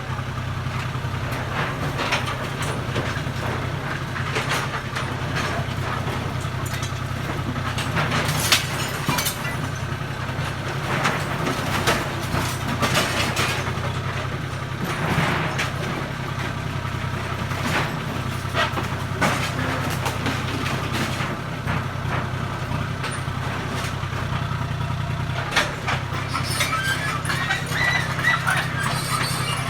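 Heavy-equipment diesel engine running steadily, with frequent short knocks and clatter of the machine at work.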